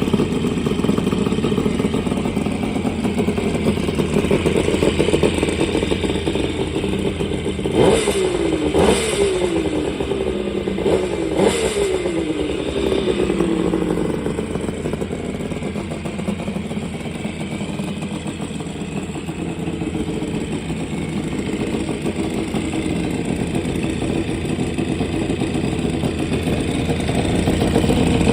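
Kawasaki 350SS two-stroke triple running through a Johoku Murakami collector exhaust, idling with four quick throttle blips about a third of the way in, the revs falling back after each before it settles to idle again.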